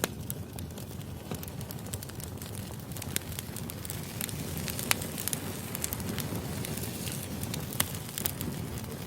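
Firewood burning: a steady low rush of flames with scattered sharp crackles and pops, the loudest pop about five seconds in.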